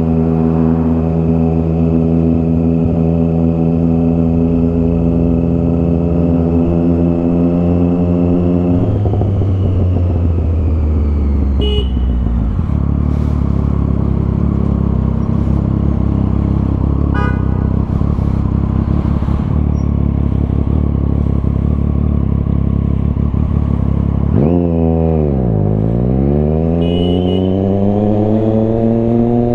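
Motorcycle engine with a Scorpion Serket Taper aftermarket exhaust, running steadily at first, then settling to idle for about fifteen seconds. Near the end the revs dip as it pulls away, then rise steadily as it accelerates.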